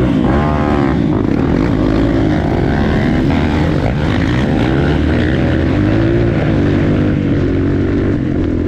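Dirt bike engine under way, its pitch repeatedly rising and falling as the throttle is opened and closed.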